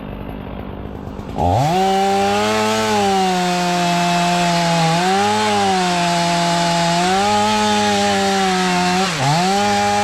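Chainsaw idling, then throttled up about a second and a half in to full speed, cutting wood. Its high, steady pitch wavers a few times as the load changes, with one sharp dip and recovery near the end.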